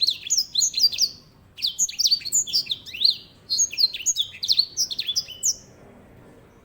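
White-rumped seedeater (grey singing finch, edel sanger) singing loud rolling song: three phrases of rapid notes, each sliding downward, with short pauses between them, stopping near the end.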